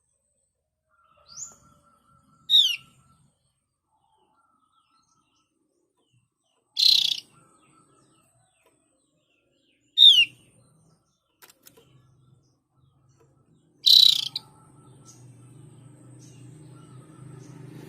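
Javan grey-throated white-eye (opior jawa) calling in separate short phrases with gaps between them. Sharp downward-sliding whistles sound about a second or two in and again about ten seconds in, alternating with two harsh buzzy bursts about seven and fourteen seconds in. A faint low hum comes in after the last burst.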